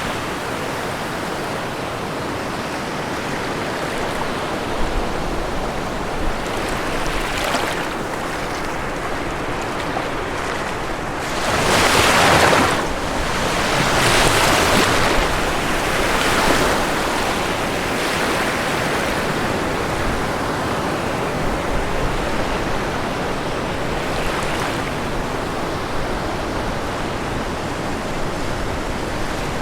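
Ocean surf washing on a shore: a steady hiss of waves, with the loudest wave breaking about twelve seconds in and a few smaller swells following.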